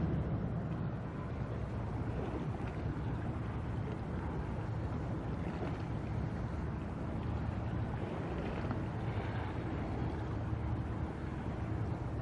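Steady low drone of a ship's engine, with a hiss of wind and water over it.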